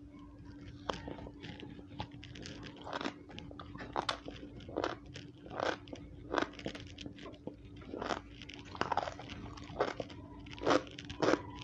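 Crunchy biting and chewing of a raw small round purple brinjal (eggplant), a crunch about every three-quarters of a second, over a steady low hum.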